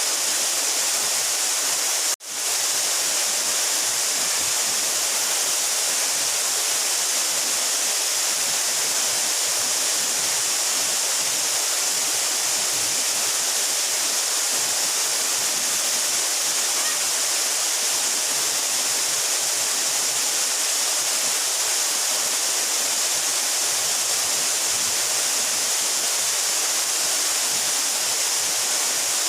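A 12-metre mountain waterfall pouring continuously: a steady, even rush of falling water, brightest in the high hiss. The sound briefly drops out for an instant about two seconds in.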